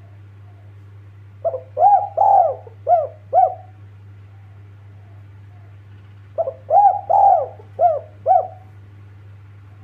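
Spotted dove (tekukur) cooing: two song phrases, about 1.5 s and 6.4 s in, each a short run of about five rounded coos. A steady low hum runs underneath.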